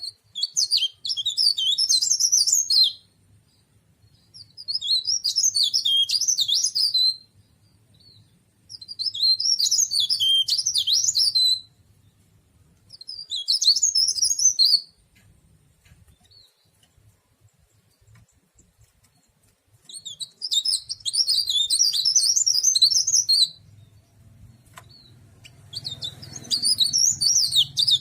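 Cikrak daun (tralis), a small songbird, singing in a run of six fast, high-pitched warbling phrases, each two to three seconds long, with pauses of a few seconds between them.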